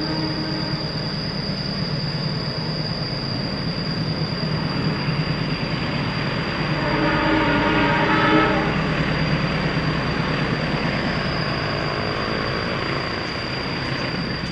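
Diesel locomotive hauling a passenger train around a curve, its engine and wheels rumbling steadily, with the horn sounding once for about a second and a half around the middle.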